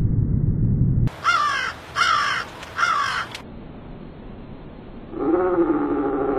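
Three harsh, cawing bird calls in quick succession, after about a second of loud low rumbling noise. A long, evenly pitched animal call starts about five seconds in.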